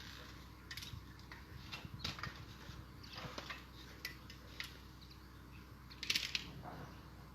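Thuja branches being handled and worked, with irregular sharp clicks and short rustles of foliage, the loudest cluster about six seconds in.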